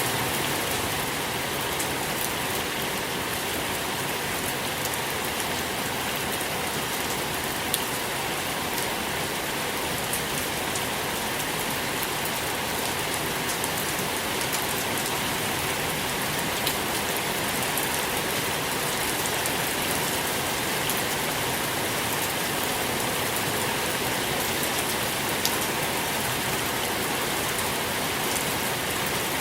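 Steady soft rain falling on a surface, an even hiss with scattered individual drops ticking through it.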